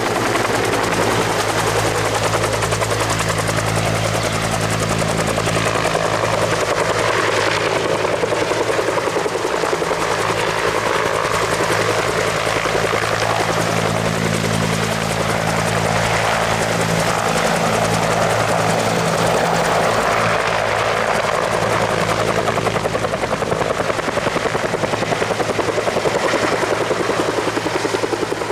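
Bell two-bladed military helicopter flying a display maneuver: steady rotor chop over a turbine hum, loud and continuous, swelling and easing slightly as it moves.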